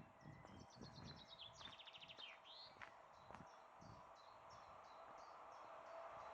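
Faint songbird singing: quick high trills and a rising chirp in the first three seconds, over soft low thuds. Toward the end a steady noise slowly grows louder.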